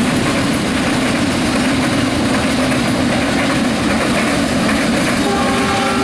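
Train cars rolling across a railway bridge: a steady rumble and clatter of wheels on the rails.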